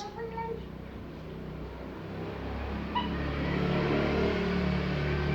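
Engine of a motor vehicle running, a low steady hum that grows louder about two seconds in, as if passing close by.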